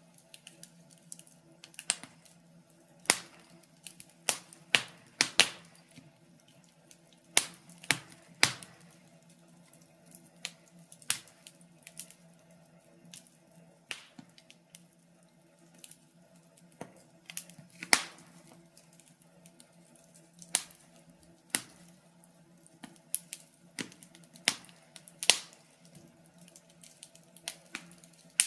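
Wood fire crackling in a fireplace: irregular sharp pops and snaps, sometimes a few close together, with gaps of a second or more between them, over a faint steady hum.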